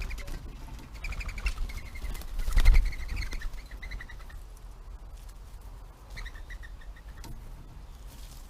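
Birds calling in quick runs of short, evenly repeated notes: one run from about a second in to about four seconds, and a shorter one a little after six seconds. A low rumble lies under them, and a sharp knock a little under three seconds in is the loudest sound.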